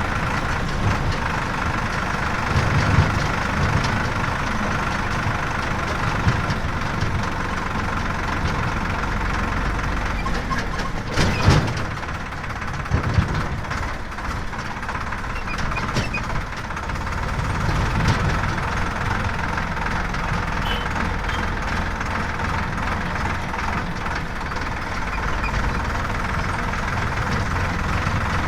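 Heavy diesel engine running steadily, with a few swells in level and a short clatter about eleven seconds in.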